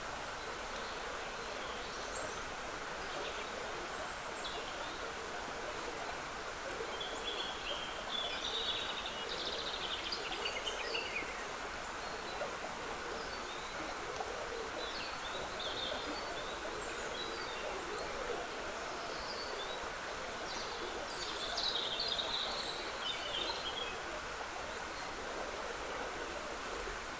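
Steady trickling of a woodland stream, with songbirds singing in short phrases over it. The song is busiest about a third of the way in and again about four-fifths of the way in.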